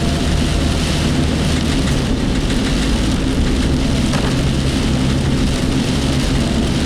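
Heavy typhoon rain beating on a work vehicle's roof and windshield, heard from inside the cabin as a loud, steady hiss over the low hum of the engine and tyres on the road.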